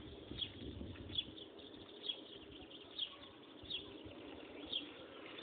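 Faint outdoor ambience: a small bird chirping, short high falling chirps about once a second, over a faint low rumble that fades after about two seconds.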